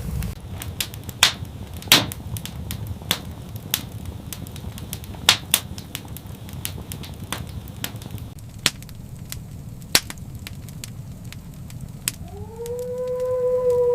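Wood fire crackling, with irregular sharp pops and snaps over a low rumble. About twelve seconds in, a long animal call starts and holds one steady pitch.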